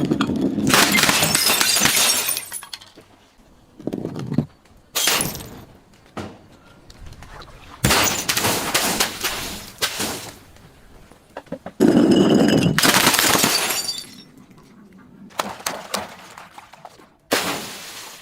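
Glass bottles breaking and being crushed: about seven separate bouts of shattering and crunching glass, the longest about a second in and about twelve seconds in.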